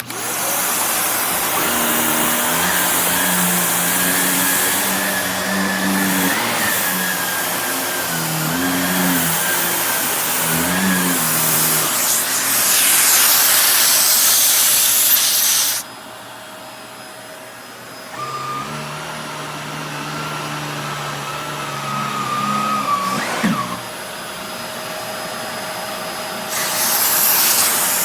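Shark NV360 Navigator upright vacuum cleaner switched on and running, its motor whine shifting in pitch. About halfway through it suddenly drops in level, then gets louder again near the end.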